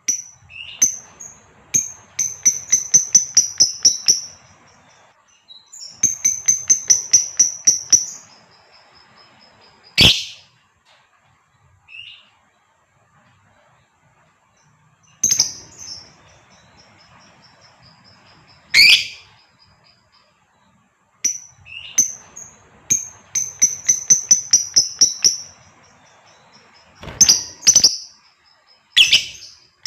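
Female lovebird calling: trains of rapid, high-pitched chirps, each lasting about two seconds and repeated several times, broken by single sharp shrieks.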